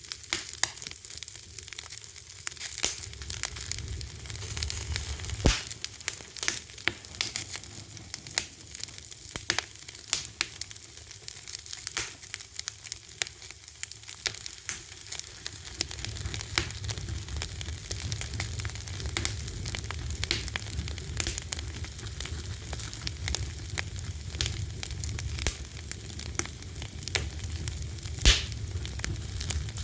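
Fire crackling: dense snaps and pops over a steady hiss, with two louder pops, one about five seconds in and one near the end. A low rumble comes and goes under it and is strongest in the second half.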